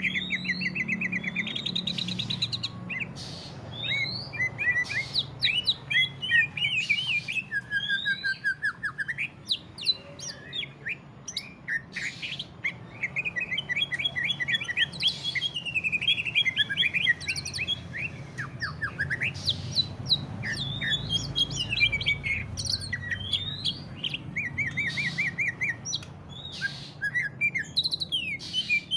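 Green leafbird (cucak ijo) singing a continuous, varied song of rapid trills, short chirps and quick sweeping notes, over a faint low hum.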